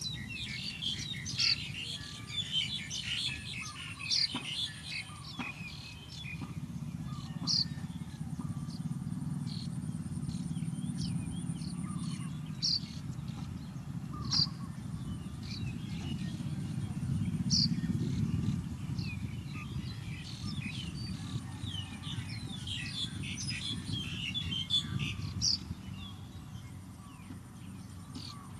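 Small birds chirping and twittering, a busy chatter of many notes at the start and again near the end, with single sharp calls every couple of seconds in between, over a steady low rumble.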